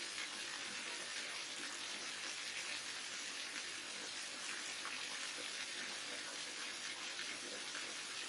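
Waterfall: falling water rushing steadily, an even hiss-like splashing with no breaks or changes.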